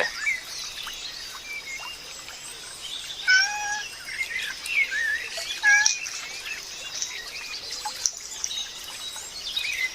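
Several wild birds chirping and whistling in short, sliding calls, busiest from about three to six seconds in, over a faint steady high hiss.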